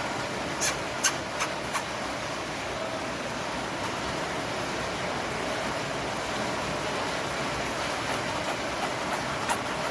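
Steady rushing noise with a few sharp, light clicks: four in quick succession about a second in and one more near the end.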